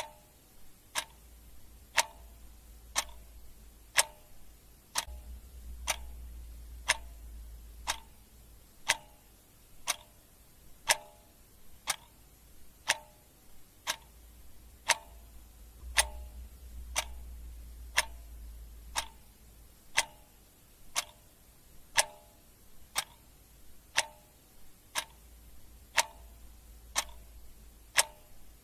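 Clock ticking steadily, about one tick a second, the ticks alternating a little in strength like a tick-tock. A faint low hum swells and fades underneath.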